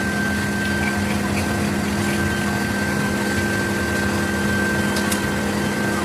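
A workshop machine running steadily, a constant hum with a thin high whine over it.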